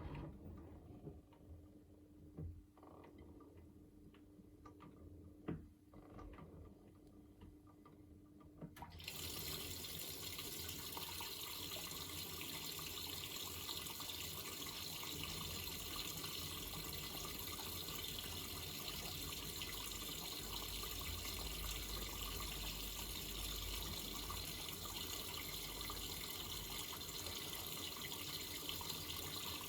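Miele Navitronic W3985 WPS washing machine: a few faint clicks and a low hum, then water starts rushing in suddenly about nine seconds in and runs steadily. This is the fill for the final rinse, drawing in fabric softener.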